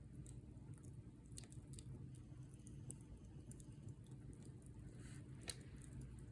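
Campfire wood crackling: scattered small pops and snaps, with one sharper crack about five and a half seconds in, over a faint low rumble.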